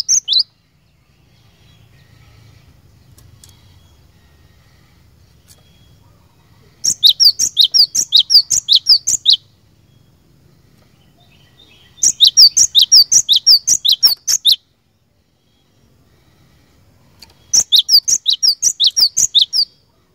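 Cinereous tit (gelatik batu) singing: three loud bursts of rapid, sharp, repeated notes, about five a second, each burst lasting about two and a half seconds with pauses of a few seconds between.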